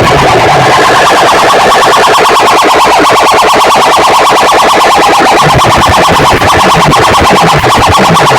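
A competition sound system (a DJ box) played at full volume: a rapidly pulsing, alarm-like electronic tone over a pulsing bass line, steady and very loud. The system is being tested before a sound competition.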